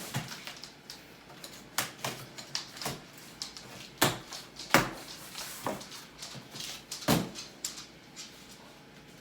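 Irregular clicks, knocks and scrapes of a cardboard box being handled and worked open, the strongest knocks about four, five and seven seconds in.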